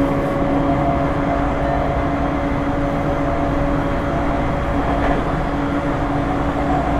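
Running noise of a JR East E231-1000 series electric train heard from inside the car: a steady rumble of wheels on rail with a steady hum of level tones, as at a constant speed.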